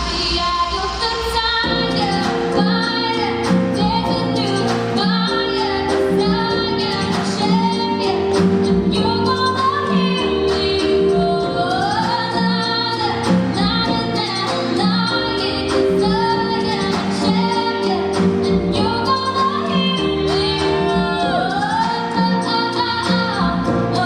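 A girl singing a pop song over a recorded backing track, with long held notes that slide up in pitch.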